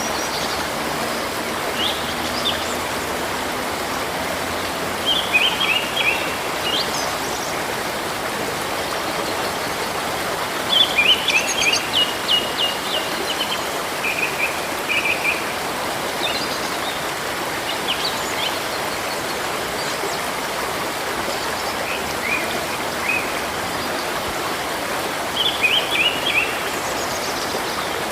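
Birds chirping in short bursts of rapid notes every few seconds over the steady rush of flowing river water.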